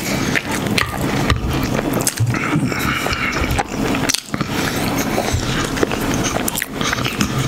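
Close-miked chewing and wet mouth sounds of a person eating soft mashed potatoes and macaroni, with many small irregular smacks and clicks.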